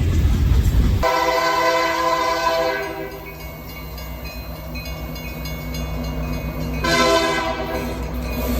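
Locomotive multi-chime air horn sounding a long blast from about a second in, dropping to a fainter hold, then a second loud blast near the end, over the low rumble of the locomotive. Before the horn comes a brief rushing noise.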